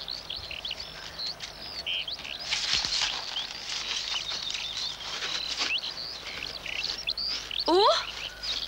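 Songbirds chirping and singing, many short calls overlapping. Near the end a brief rising call is the loudest sound.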